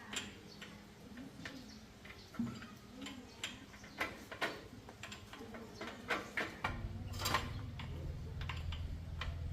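Scattered light clicks and taps of hand tools and metal bicycle parts being handled. A low steady hum starts about two-thirds of the way through.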